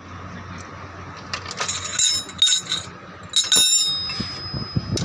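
Metal clinking: a run of sharp strikes with high ringing tones, the last ringing on for over a second before a final clink.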